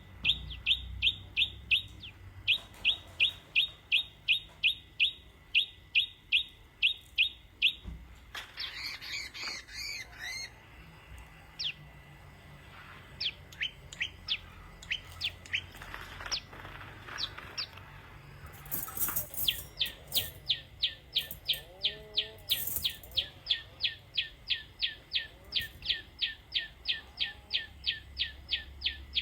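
Small bird chirping: long runs of quick, evenly repeated chirps at about three to four a second, broken in the middle by several seconds of scattered single calls before the runs start again.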